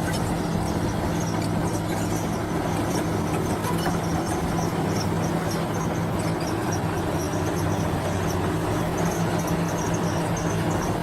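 Heavy earthmoving machine's diesel engine running steadily at an even pitch, with faint, scattered high-pitched squeaks and clinks over it.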